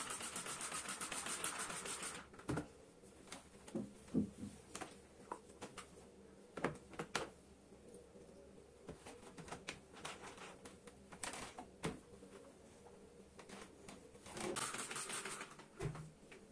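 Rapid scrubbing strokes during kitchen cleaning, for about two seconds at the start and again briefly near the end, with scattered light clicks and knocks between.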